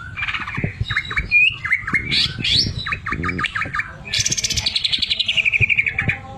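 A cucak ijo (green leafbird) singing a fast medley of varied whistles and chirps. About four seconds in it breaks into a rapid, evenly pulsed trill that falls in pitch for about two seconds: the mimicked 'sewing machine' (mesin jahit) song filling. Faint low knocks sound underneath.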